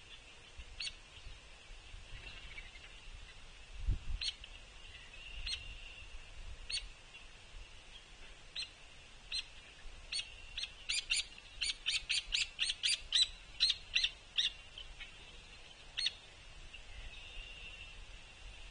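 Hairy woodpecker giving short, sharp call notes, the begging of a juvenile asking to be fed: single notes every second or two, then a quick run of many notes in the middle. A low thump about four seconds in.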